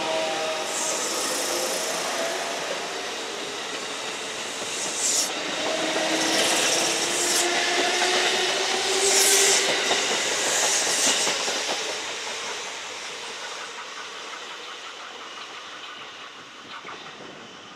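Kintetsu electric train running past, its motors sounding in gliding tones and its wheels clacking over the rail joints, with several short high hissing bursts. The sound fades away over the last several seconds.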